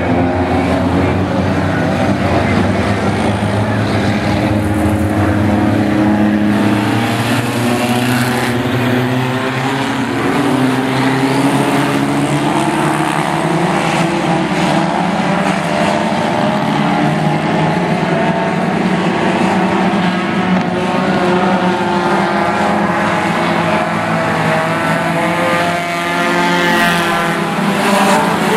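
A pack of stock race cars' engines running together on an oval track. It is a loud, continuous sound, with several engine pitches overlapping and rising and falling as the cars circulate.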